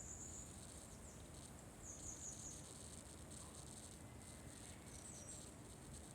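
Faint, steady high-pitched chirring of insects such as crickets, with a few brighter, slightly higher-pitched trills rising out of it now and then.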